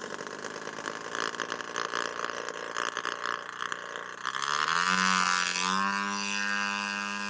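Stinger launcher powering up after its battery coolant unit is seated: a steady gas hiss, then from about four seconds in a whine that rises and settles into a steady hum.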